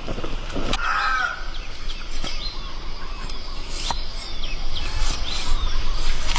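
Birds calling: a run of short chirps, with one louder call about a second in, over a low steady rumble and a few sharp clicks.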